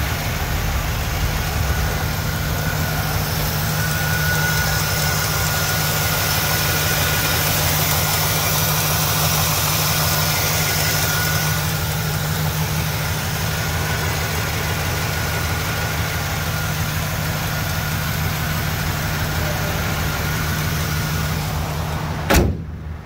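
A 1996 Chevrolet Caprice's V8 idling steadily with the hood open, a faint steady whine above the engine note. Near the end the hood is slammed shut with one loud bang, and the engine is heard more muffled after it.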